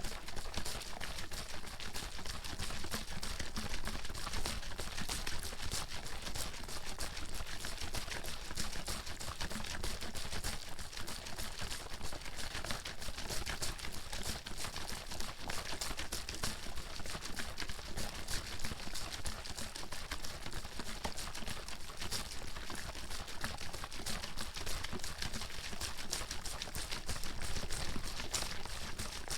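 Water bottle being shaken nonstop, the water sloshing and slapping inside in rapid, irregular strokes.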